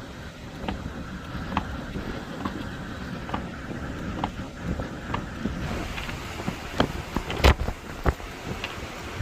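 Blizzard wind buffeting the microphone as a steady low rumble, with irregular sharp ticks and taps throughout and one louder knock about seven seconds in.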